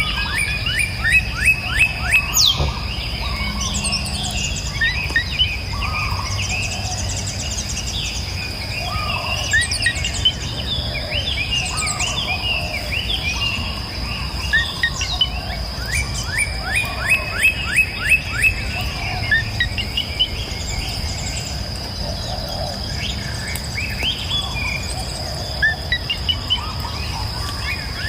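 Several wild birds singing and calling, with repeated rapid runs of chirps, over a steady high insect drone and a low rush of flowing river water.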